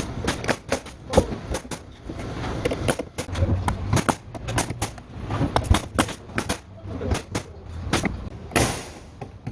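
Irregular sharp knocks and clicks of carpentry work, often several a second, over a low steady hum.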